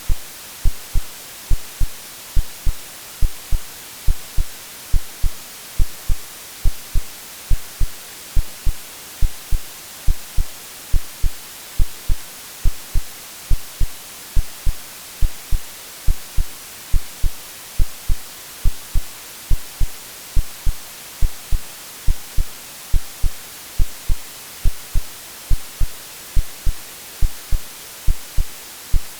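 Synthetic heartbeat, a steady low lub-dub double thump a little over once a second, over continuous white-noise hiss, a generated sleep sound meant to resemble what a baby hears in the womb.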